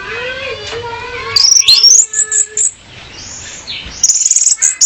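Orange-headed thrush (female) calling: high whistled chirps and rising glides, with a quick run of high notes about a second and a half in and another near the end.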